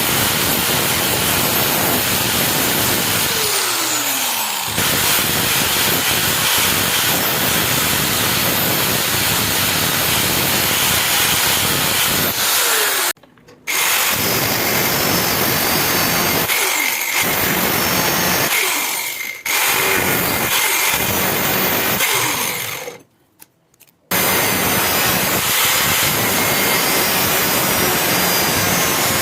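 Electric power tool grinding on a steel knife blade, a loud, dense grinding noise. It is broken three times by short drops, and twice a motor's pitch falls as it spins down.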